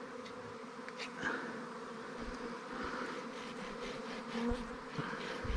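A swarm of honeybees buzzing steadily around the microphone, an even hum with no break.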